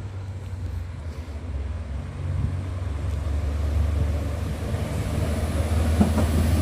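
Northern Class 195 diesel multiple unit's engines giving a low, steady rumble that grows gradually louder.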